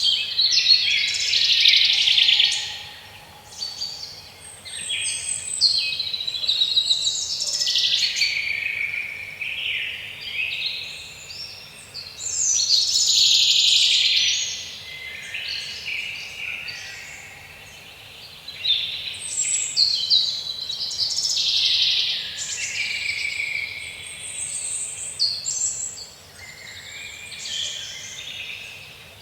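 Several songbirds singing at once, dense overlapping chirps and trills over a faint steady hiss, rising and falling in phrases.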